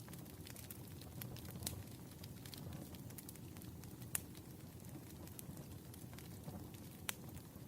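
Campfire sound: wood burning with a steady low rush and irregular sharp crackles and pops, two louder pops at about four and seven seconds in.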